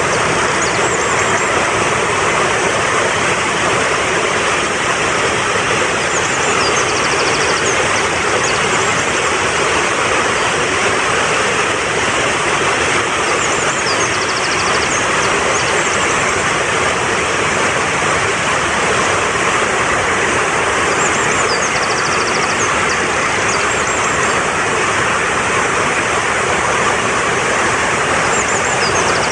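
Fast-flowing mountain stream rushing steadily. Several spells of high, rapid bird trills sound over it.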